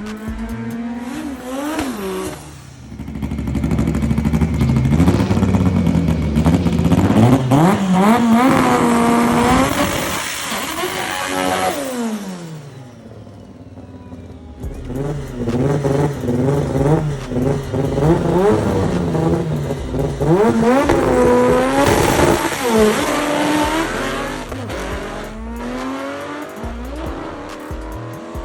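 High-performance car engines revving and accelerating hard, the pitch climbing and dropping again and again in two long loud stretches with a quieter lull between them.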